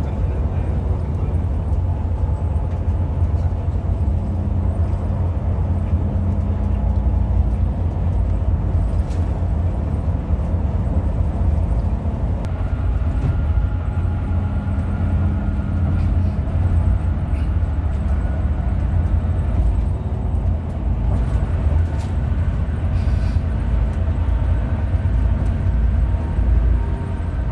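Hino RM 280 bus driving along: a steady deep rumble of engine and road noise, with faint humming tones that come and go.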